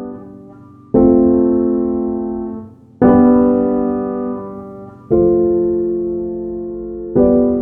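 Slow piano music: a chord struck about every two seconds and left to ring and fade before the next.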